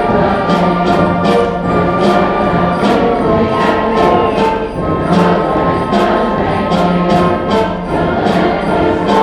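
School band playing held chords over a steady percussion beat, the strokes coming about twice a second.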